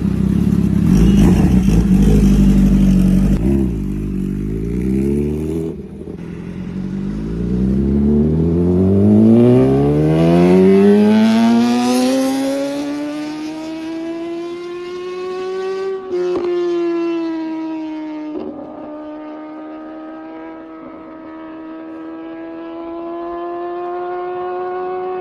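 Kawasaki ZX-10R inline-four engine: a loud low rumble for the first few seconds, then the engine note climbs smoothly for about ten seconds and holds a high, steady pitch to the end, with two brief clicks partway through the held note.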